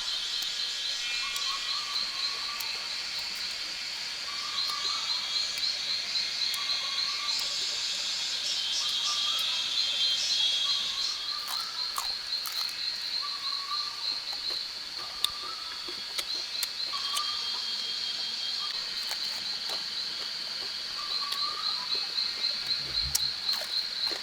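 Rainforest chorus of calling frogs and insects: a continuous high, rapidly pulsing trill. A shorter, lower call repeats every couple of seconds.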